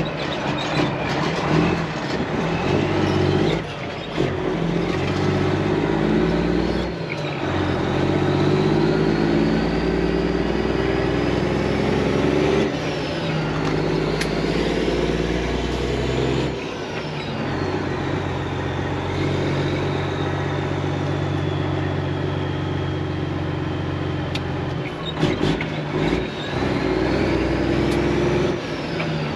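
Semi-truck diesel engine pulling through the gears, its pitch changing at each shift, about 4, 7 and 16 seconds in, with a high whistle rising and falling above it.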